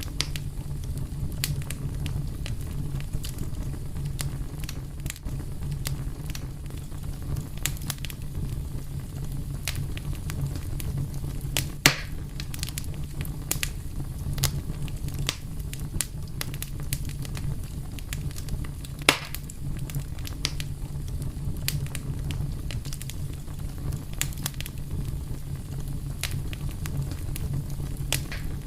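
Wood fire crackling steadily over a low rumble of burning, with frequent small snaps and a few sharper, louder pops, one about twelve seconds in and another about nineteen seconds in.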